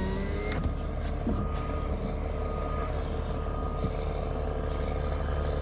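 Heavy diesel engine of a snowcat revving up, then running steadily under load as it tows a stuck bus. Short high beeps of a reversing alarm come and go.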